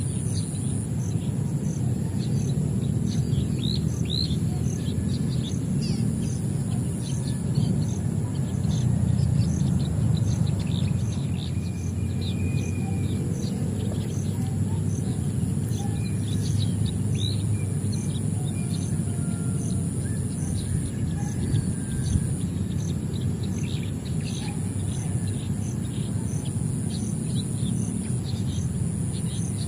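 Many small birds chirping in short, quick, falling notes, over a steady high-pitched drone and a low rumble.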